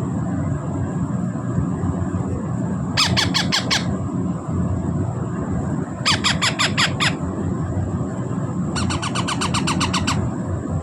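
Hand-fed baby parrots giving food-begging calls: three bursts of rapid, repeated squawks, each about a second long. A steady low background rumble runs underneath.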